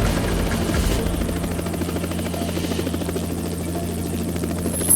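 Steady mechanical drone with a constant low hum and a fluttering texture, easing off slightly after about a second.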